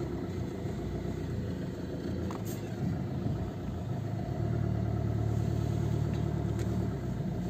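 Car engine running low and steady, heard from inside the cabin, swelling a little for a few seconds in the second half.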